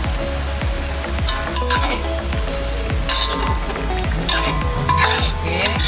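Chicken pieces sizzling in oil and chili paste in a large aluminium wok, stirred with a metal ladle that scrapes against the pan several times in the second half.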